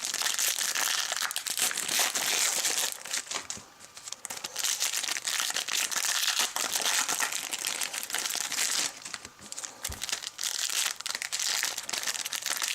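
Foil wrappers of Panini Select football card packs crinkling as they are handled and squeezed to feel for the thicker autograph or relic cards inside. The rustle is steady, with two short lulls.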